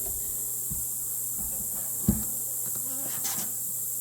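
Honeybees buzzing steadily around an open hive, with a few short knocks from handling, the loudest about two seconds in.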